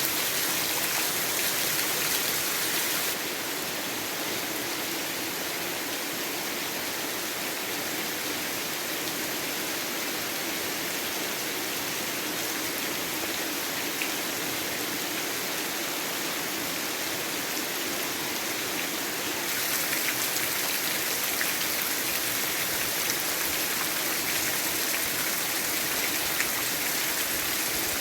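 Heavy rain falling steadily, a dense hiss of drops with no rhythm. It drops slightly in level about three seconds in and grows louder again about twenty seconds in.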